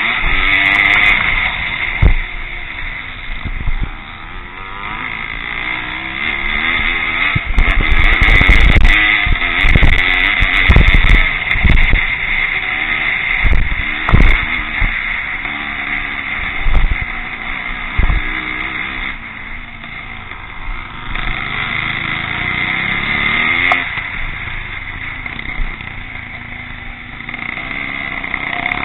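Pre-1965 vintage motocross motorcycles racing, their engines revving up and down as they go round the track. Several low thumps break in partway through.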